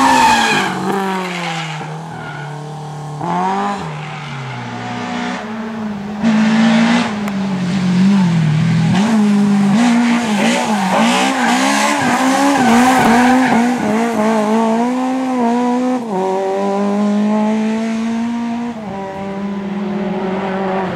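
Lada rally car engines revving hard through corners, the pitch climbing and dropping repeatedly with throttle and gear changes, with tyres squealing on the road.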